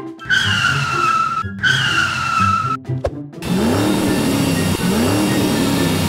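Two tire-screech sound effects, each about a second long and falling slightly in pitch, then a car engine revving twice, its pitch rising and falling, over background music.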